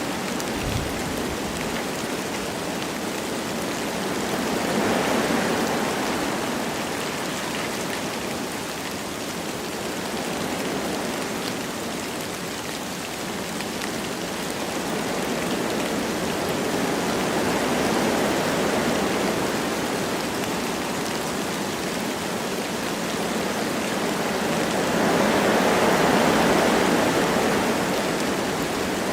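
Wind blowing through forest trees with light rain falling, a steady hiss that swells in gusts about three times.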